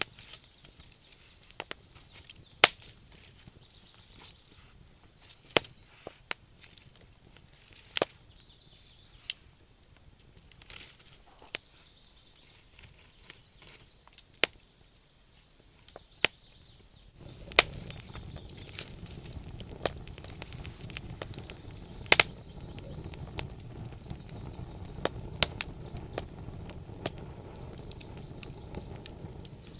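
Wood fire burning in a stove, crackling with sharp irregular pops and snaps. About halfway through, a steady low rumble of the flames comes up under the crackle.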